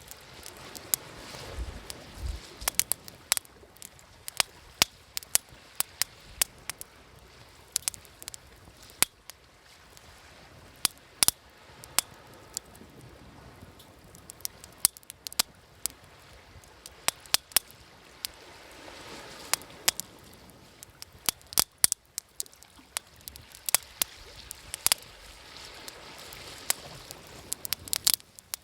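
Wood fire crackling, with sharp pops several times a second, over the soft wash of waves that swells and fades a few times.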